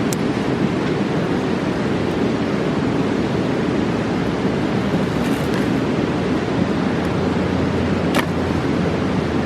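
Rushing mountain river, a steady roar of water, with the campfire giving a sharp pop at the very start and another near the end.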